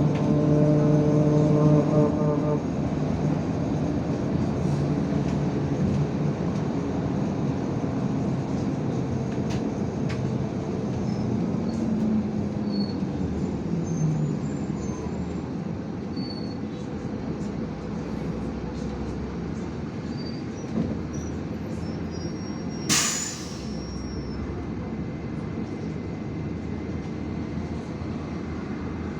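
IVECO Crossway 13M LE city bus heard from inside while under way: steady engine and road noise, with a strong whining tone for the first couple of seconds that fades into a steadier rumble. A short, sharp hiss of air comes about two-thirds of the way through.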